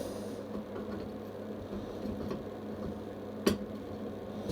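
Low steady electrical hum with a single light metallic clink about three and a half seconds in.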